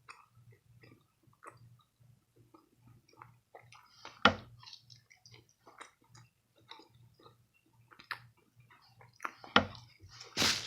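A person chewing food close to the microphone: soft, wet mouth clicks with two louder clicks, one about four seconds in and one shortly before the end.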